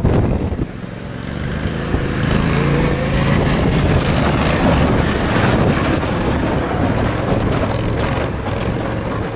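A motor vehicle engine running loud and steady, with a rushing noise over it and its pitch edging up a few seconds in.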